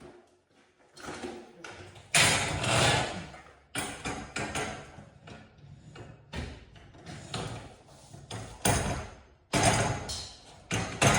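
Irregular knocks, thuds and clanks of tools and hardware being handled during garage door repair work, the loudest a little after two seconds in and again near the end.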